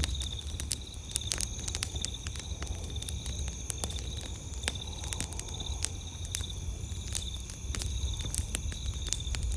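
Wood campfire crackling with irregular sharp pops, over a steady high chirping of insects at night.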